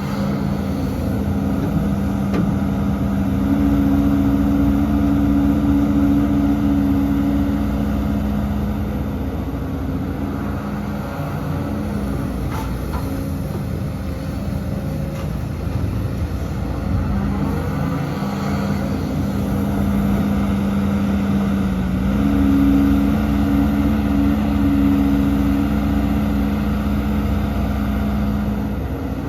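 Heavy diesel engine of earthmoving machinery running steadily. Twice it speeds up and works harder for about five seconds, then settles back.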